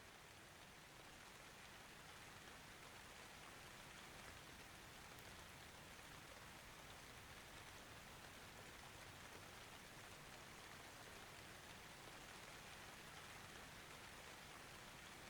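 Faint, steady rain, a soft even hiss of falling rain that grows slightly louder.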